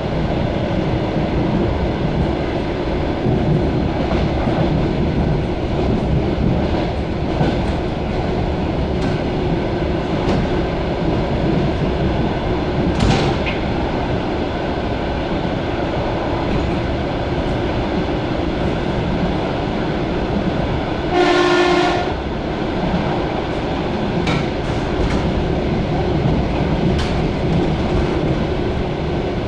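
Electric commuter train running, heard from inside the carriage: a steady rumble of wheels on rails. About two-thirds of the way through, a short pitched horn blast sounds for about a second.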